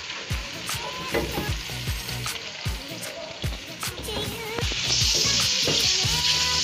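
Onion, garlic and tomato masala sizzling in oil in a non-stick pot while a wooden spatula stirs it, knocking and scraping the pan about two or three times a second. About five seconds in the sizzle gets much louder and stays loud.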